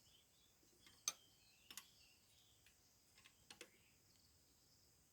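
Faint metallic clicks and taps of a spanner working the clutch-setting nuts on a walking tractor's clutch: about five light clicks spread over the first four seconds, the second the sharpest.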